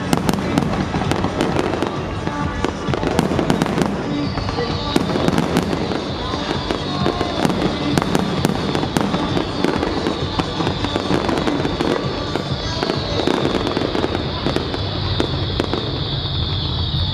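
Aerial fireworks shells bursting in a rapid, continuous barrage of bangs and crackles.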